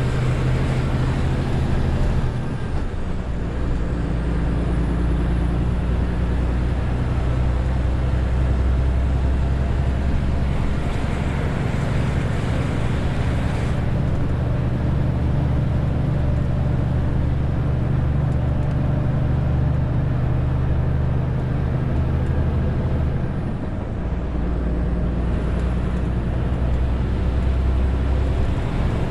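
Renault T520 truck's 13-litre six-cylinder diesel running steadily under load, hauling about 40 tonnes. The engine note dips briefly twice, about two seconds in and again about three-quarters of the way through.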